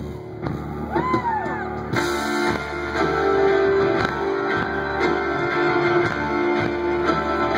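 Live band playing the instrumental break of a folk-rock song: strummed guitars and drums, fuller and louder after about two seconds. A short rising-and-falling call from the crowd comes about a second in.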